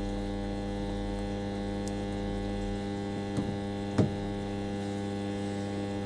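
Washing machine water inlet valve humming steadily as it lets water in for a pulse fill. A couple of short knocks come about three and four seconds in.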